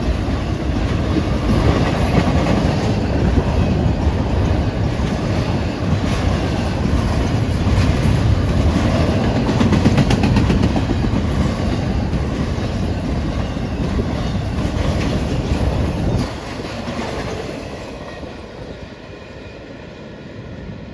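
Long CSX intermodal freight train passing at speed: a steady rumble of steel wheels on rail with the clickety-clack of railcars passing over rail joints. About 16 seconds in the noise drops sharply and then fades away.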